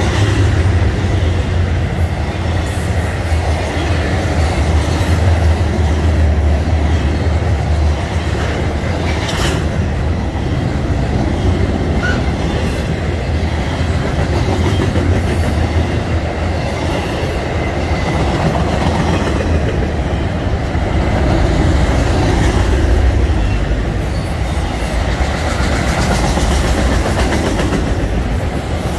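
Loaded freight cars rolling past at close range: double-stack container well cars, then autorack cars. Their steel wheels make a steady rumble and clickety-clack over the rail joints, with a faint high wheel squeal and one sharp clank about nine seconds in.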